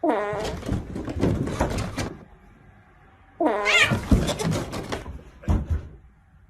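A cat meowing twice: a long call falling in pitch at the start and a rising-and-falling call about three and a half seconds in, with noisy rustling and knocks around the calls.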